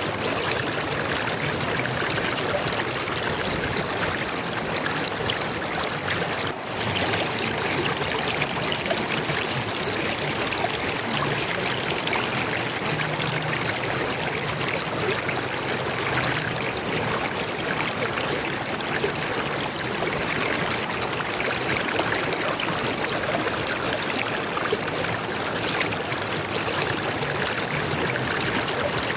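Flowing stream water running steadily, with a brief dip in level about six and a half seconds in.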